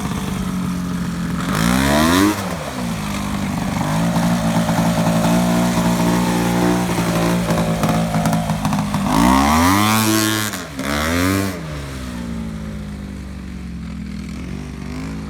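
Tractor engine running hard under load. Its pitch climbs about two seconds in and holds steady, then it revs up and falls back twice near ten and eleven seconds before dropping to a lower, quieter run.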